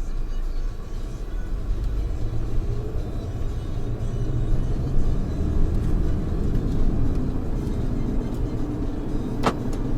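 Low rumble of a Geely Atlas 1.8T on the move, heard inside the cabin. A brief whistle falls steeply in pitch about nine and a half seconds in.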